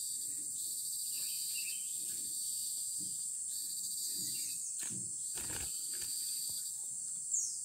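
Steady high-pitched drone of insects such as crickets or cicadas. A few faint rustles come partway through, and one short, falling high chirp sounds near the end.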